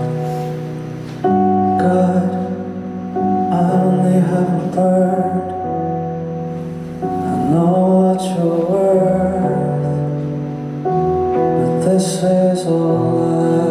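Live performance of a slow, tender song's instrumental intro: sustained chords that change every second or two, with a brief upward pitch slide about halfway through.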